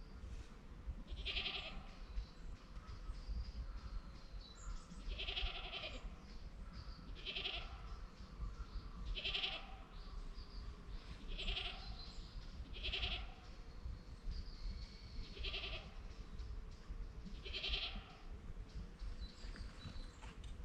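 An animal call repeated about every two seconds, each call about half a second long and fairly high-pitched, over a low rumble.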